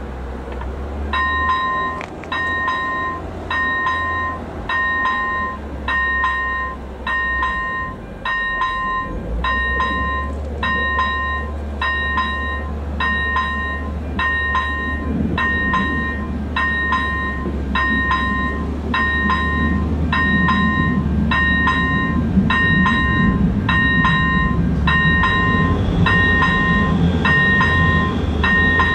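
Level-crossing electronic warning bell (AŽD ZV-01) starts striking about a second in, a ringing ding repeating a bit faster than once a second as the crossing activates for an approaching train. In the second half the rumble of the approaching train, a ČD Class 854 diesel railcar, grows louder under the bell.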